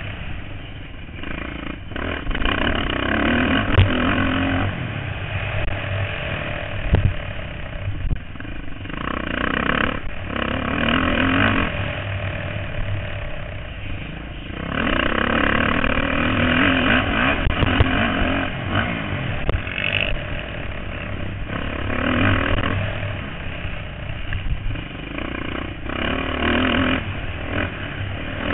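Motocross bike engines racing, revving hard and easing off again and again as the bikes go round the track.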